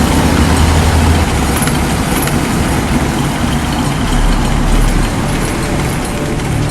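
Steady low rumble of a heavy vehicle engine under a thick hiss.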